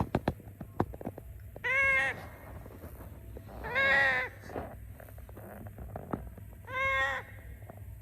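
A parrot calling three times, a drawn-out, clear-pitched cry every two to three seconds, with a few short clicks near the start.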